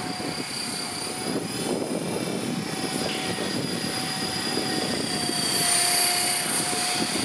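Radio-controlled model helicopter in flight: a steady high-pitched motor whine over the hum of the rotors, getting a little louder about six seconds in.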